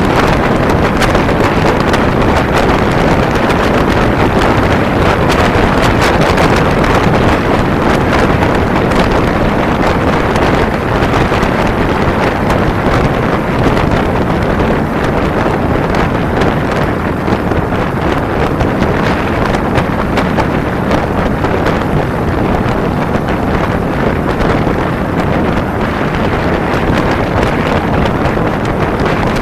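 Steady, loud wind rush over a camera microphone riding on a Kawasaki Ninja 250 motorcycle at speed: an even roar with no clear engine note standing out.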